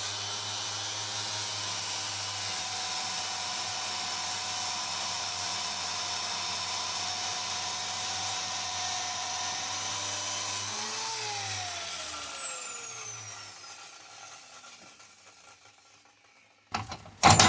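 Electric metal-cutting power tool running steadily as it cuts through steel, with a high whine. About eleven seconds in it is switched off, and its motor winds down with a falling whine that fades away.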